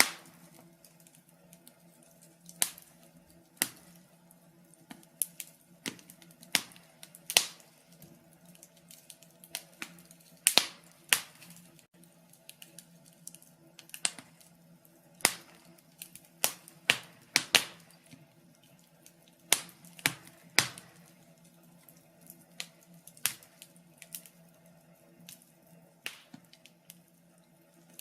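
Wood fire in a fireplace crackling, with irregular sharp pops, some much louder than others, over a faint steady low hum.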